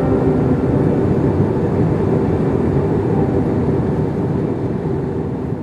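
Steady vehicle running noise with a low hum, fading out near the end.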